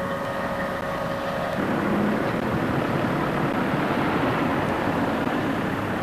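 Diesel locomotive running. For the first second and a half there is a steady engine hum with a few held tones. Then it gives way to a louder, rougher rumble of the train on the move.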